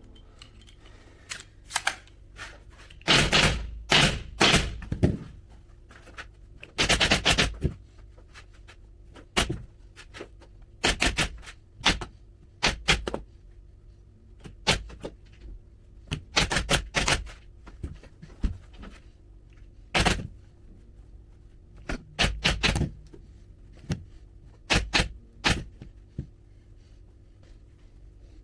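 Upholstery staple gun firing into the sofa's frame: a run of sharp, irregular shots, often two or three in quick succession, with pauses between, as the new cover fabric is stapled down.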